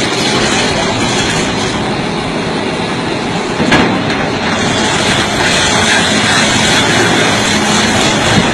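A heavy machine's engine running under load while big rocks are crushed and grind against each other on a truck, with one sharper knock about four seconds in.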